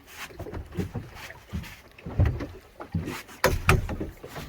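Small boat's hull slapped by choppy water, with irregular splashes and low thuds, the sharpest strikes a little past the middle.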